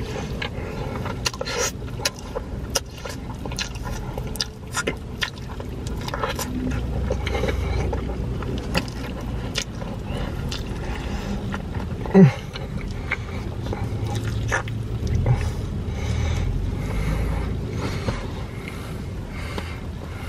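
Close-up mouth sounds of a person eating deep-dish pizza: chewing, lip-smacking and wet mouth clicks throughout, over a low rumble. One louder thump about twelve seconds in.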